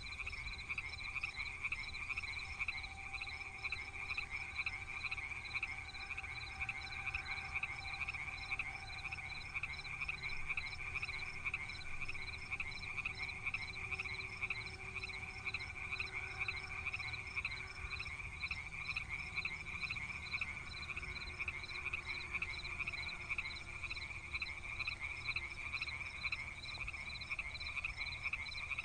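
A dense chorus of rice-paddy frogs calling, a steady fast pulsing with fainter calls underneath.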